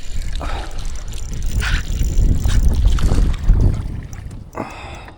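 Wind buffeting the microphone in a low rumble, over scattered splashing of water, with a short louder rush of splashing noise about four and a half seconds in.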